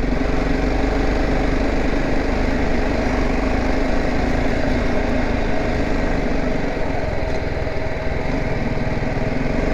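BMW G 310 GS's single-cylinder engine running at a steady pace under way, over a steady rush of noise.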